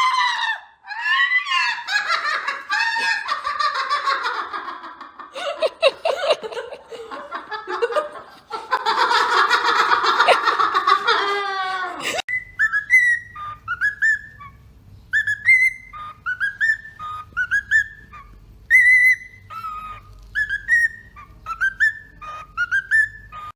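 A parrot vocalising: for about the first twelve seconds a run of gliding, speech-like chatter, then, after an abrupt cut, a series of short whistled notes that rise in pitch, about one a second, over a faint low hum.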